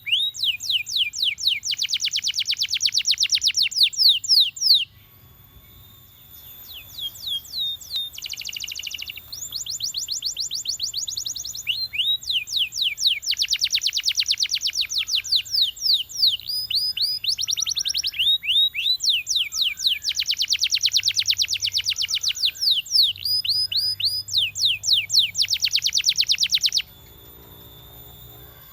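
Domestic canary singing in long trilled runs of fast, evenly repeated chirps, one run after another. There is a short break about five seconds in, and the song stops shortly before the end.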